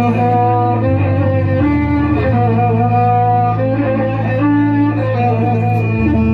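Electronic keyboard (Arabic organ) playing an instrumental interlude between the sung lines of an Iraqi 'ataba: a melody in a violin-like voice over a held bass drone, with quick repeated low notes about a second in, around two seconds in and again near the end.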